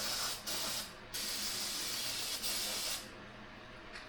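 Aerosol can of carburetor cleaner spraying in short hissing bursts onto carburetor parts: two quick squirts, then a longer blast of about two seconds that stops about three seconds in.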